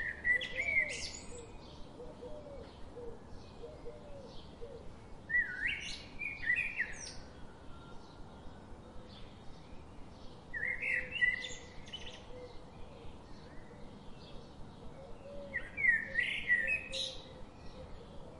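A small bird singing a short, busy, high-pitched phrase four times, about every five seconds, over a steady patter of faint quick chirps from other birds or insects.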